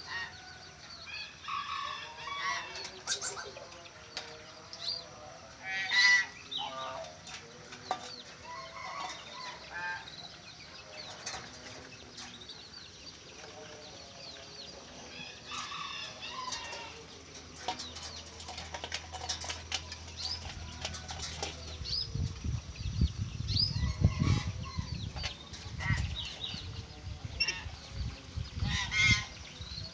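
Birds calling: a busy mix of short chirps, squawks and clucking calls. Heavy low thumps join in over the last third.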